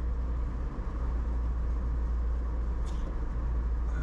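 Steady low rumble of a vehicle driving at road speed: engine and road noise.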